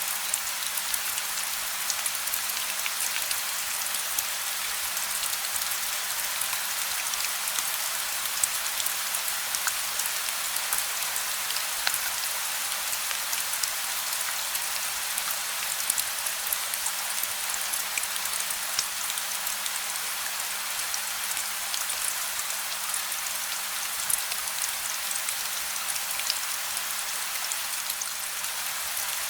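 Steady gentle rain with no thunder, a continuous hiss of falling rain with many fine, crisp drop ticks scattered through it.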